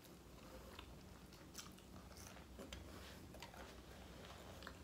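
Faint chewing of reheated fried food that has gone soft rather than crunchy, with a few light clicks spread through it.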